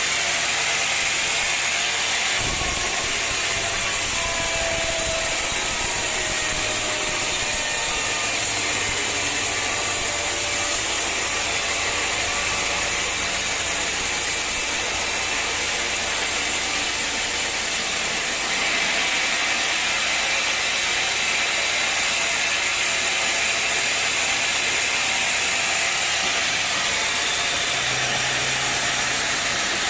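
Sawmill machinery running: a loud, steady mechanical clatter and whir with wood being sawn. The sound changes abruptly about two seconds in and again a little past the middle.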